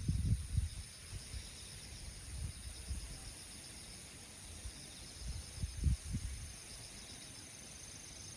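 Insects chirping steadily in several high-pitched, finely pulsing bands, with a few low thumps about six seconds in.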